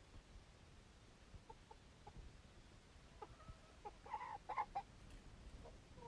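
Aseel chickens clucking: a handful of short calls a few seconds in, the loudest in a quick cluster past the middle.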